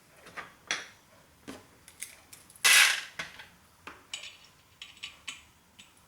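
Screwdriver and metal parts of a 1980s hard drive clicking and clinking as the drive is taken apart, with scattered sharp clicks and one louder clatter about three seconds in.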